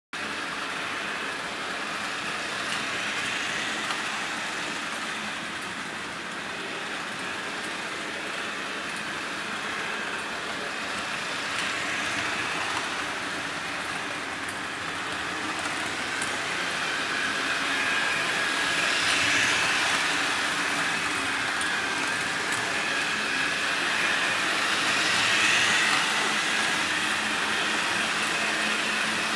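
Jouef CC 40101 model locomotive, re-motorised with two electric motors, running along its track: a steady motor whine with wheel rumble, swelling louder and easing off a few times as it comes and goes.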